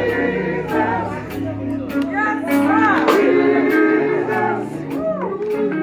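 Live gospel music: voices singing over guitar and bass, with steady drum hits about every half second.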